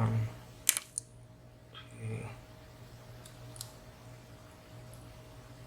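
A lock pick and tensioner working the pin stack of a WSW W10 six-pin padlock: a few small, sharp metallic clicks, the two loudest under a second in and fainter ones a little after three seconds, with soft low thumps of handling at the start and about two seconds in.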